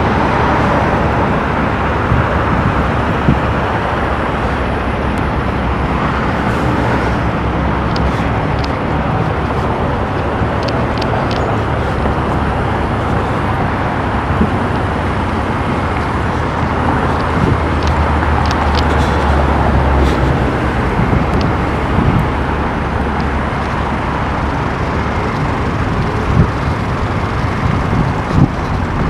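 Diesel semi-truck engines running as trucks pull away, over steady road traffic noise. The low engine drone swells and then drops away about two-thirds of the way through.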